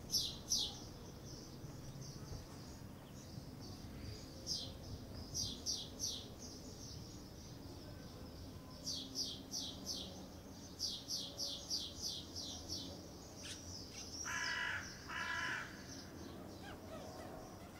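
Birds chirping in quick runs of short, sharp high calls, with a larger bird cawing twice near the end, over faint low background noise.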